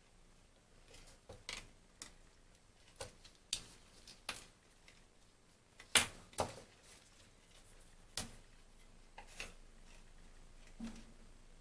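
Irregular clicks and light knocks of small hard parts of the phone being handled, about a dozen of them, the sharpest about six seconds in.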